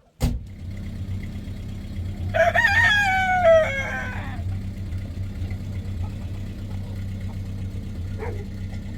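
A rooster crowing once, a call of about two seconds that falls in pitch towards its end, over a steady low hum. A sharp click comes at the very start.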